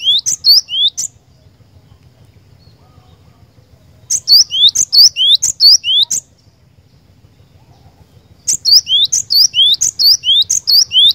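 Cinereous tit (glatik batu) singing in bouts of quickly repeated two-part notes, each a sharp high note followed by a rising whistled swoop. A bout ends about a second in, another runs from about 4 to 6 seconds, and a third starts near 8.5 seconds and carries on.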